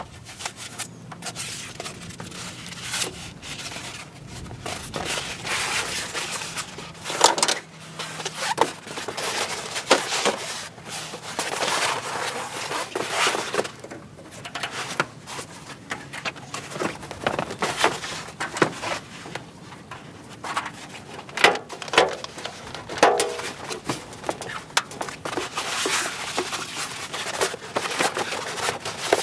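Irregular rustling, scraping and knocking, with sharp clicks through it, like camping gear being handled and moved about.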